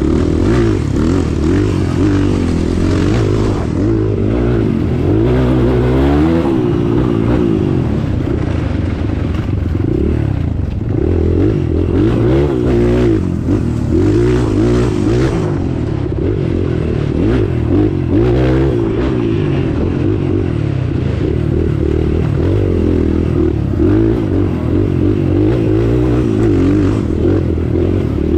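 Off-road vehicle engine running under load, its revs rising and falling continually, with rattling and scraping.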